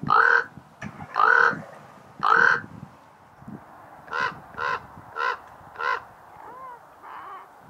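Common raven calling: three loud, harsh croaks about a second apart, then four shorter calls in quicker succession, and a few softer calls near the end.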